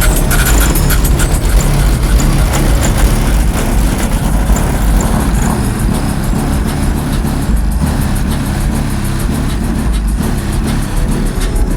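Car engines and exhausts running loudly, with music underneath.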